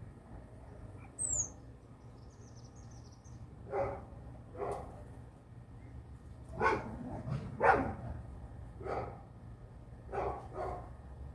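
A dog barking about seven times at uneven intervals, starting about four seconds in. Before the barks a small bird gives a few brief high chirps.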